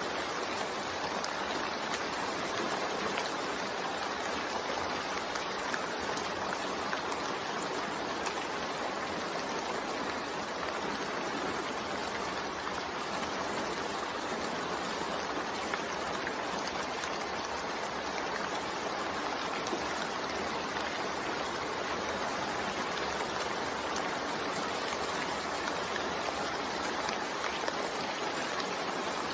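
Steady rain, an even rushing hiss that holds the same level throughout.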